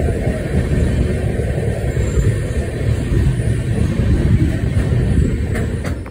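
Express passenger train running on the rails: a loud, steady rumble that cuts off abruptly near the end.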